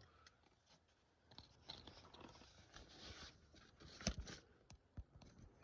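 Faint handling noise of plastic parts and wiring inside a car door: light crackling and scraping, with a few sharp clicks about four and five seconds in.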